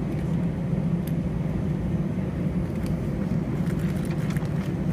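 Steady low rumble inside the cabin of an Airbus A320 on the ground, with a few faint clicks.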